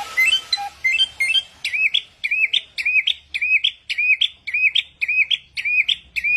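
A samyong, a mimicking songbird, calling loudly: a quick run of varied short chirps, then one short dipping-and-rising whistled note repeated evenly about three times a second.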